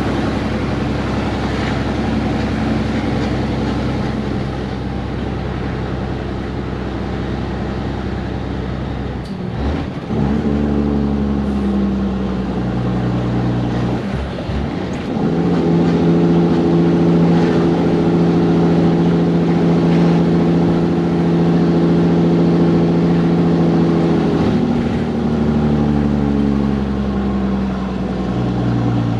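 Diesel engine of a cabover Peterbilt 362 truck pulling steadily, with two brief breaks in its tone about a third and halfway through, each picking up again at a new pitch, as on a gear change. Near the end the engine note falls gradually as the truck slows.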